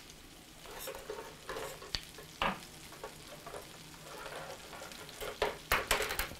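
Shrimp cakes sizzling in butter and olive oil in a hot nonstick frying pan, with a steady hiss broken by irregular crackles and pops, a few louder pops near the end.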